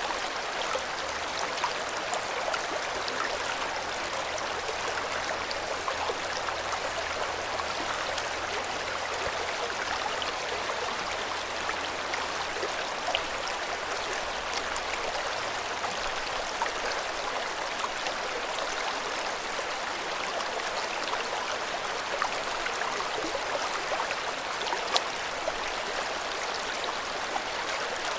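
Shallow river flowing steadily, a continuous rush of water with small splashes and bubbling over it.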